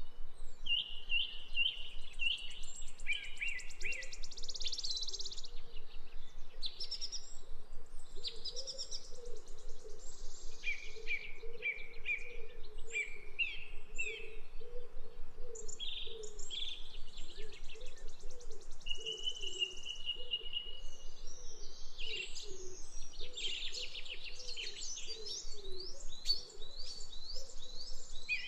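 Several birds singing and chirping, with quick repeated chirps and trills overlapping throughout and a fainter lower repeating call underneath.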